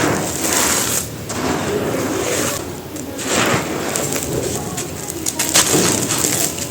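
Chunks of gravel-studded (bajri) material crunching and crumbling as they are broken apart, a dense crackle that eases off briefly twice and ends in a few sharp cracks.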